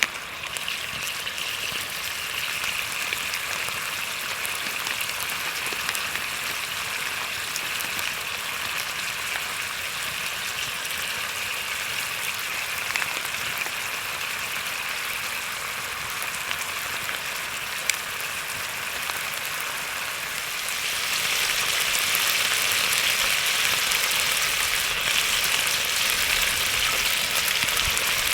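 Food sizzling and frying in a skillet over a fire, a steady crackling hiss that grows louder about two-thirds of the way through.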